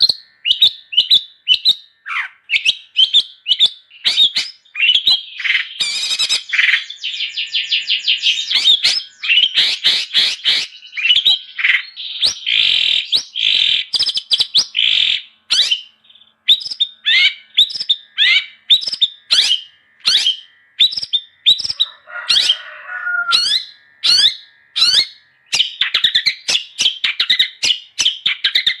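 Long-tailed shrike (cendet) singing continuously in a vigorous 'gacor' bout: a fast, unbroken string of sharp chirps and downward-slurred whistles, broken by a few harsher chattering runs.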